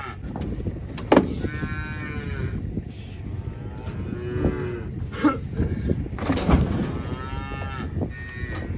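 Young calves bawling, several separate calls a second or two apart, nervous at being moved into a new pen. A few sharp knocks come in between the calls.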